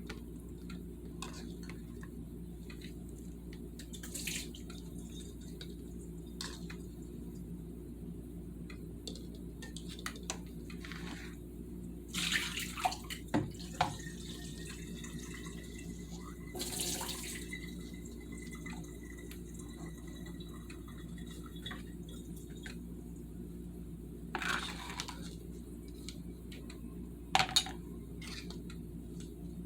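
Water splashing and running in short spells, with a few clinks of dishes, as boiled eggs are put into cold water in a sink. A steady low hum continues underneath.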